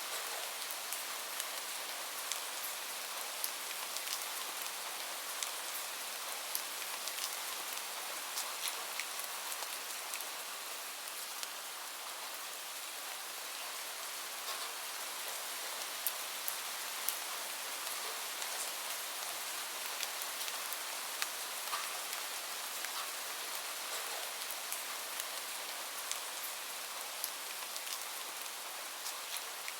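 Steady rain: an even hiss of falling rain, dotted with many small sharp drip ticks.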